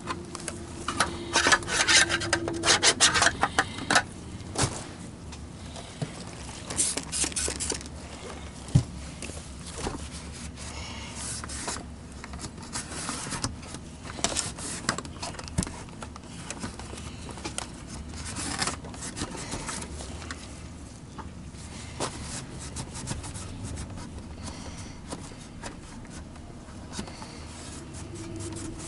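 Scraping, rubbing and clicking of vacuum power head parts being handled and worked on, busiest in the first few seconds, then quieter, scattered scrapes and clicks.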